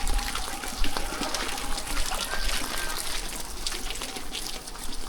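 Steady rain with running, trickling water on a flooded street, dotted with many small drips and splashes, over a low steady rumble.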